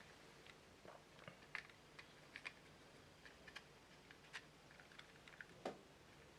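Faint, irregular small clicks and taps of plastic model-kit parts being handled and fitted together, with one louder knock near the end.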